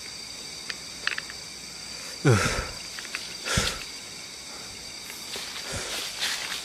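Night insects, crickets among them, keeping up a steady high-pitched chirring. Over it come a couple of faint clicks, a short sound sliding down in pitch about two seconds in, and a few brief rustles toward the end.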